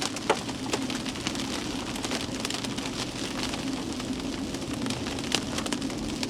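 Rain pelting a car with irregular sharp knocks of hailstones striking it, over a steady low hum.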